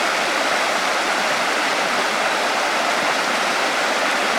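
Creek swollen after days of heavy rain, rushing steadily over rock above a waterfall: a loud, even rush of water.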